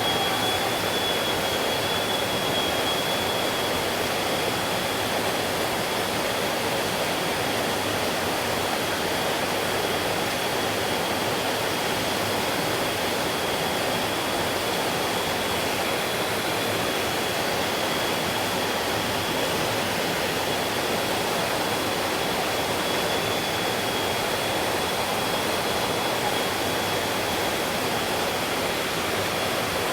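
Mountain stream rushing steadily over rocks, a dense even wash of flowing water. A thin, steady high-pitched tone runs through it.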